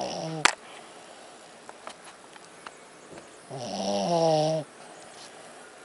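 Dog snoring in deep sleep. The tail of one pitched snore ends with a sharp click about half a second in, and a second, louder snore comes about three and a half seconds in, lasting about a second.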